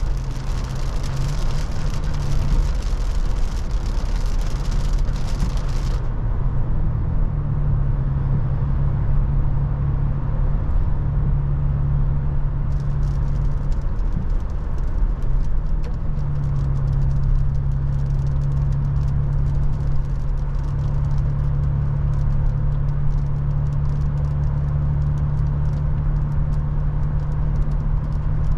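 Toyota FJ Cruiser's V6 engine and tyre noise while driving, a low steady hum that shifts in pitch several times as the speed changes. A high hiss in the first six seconds stops abruptly.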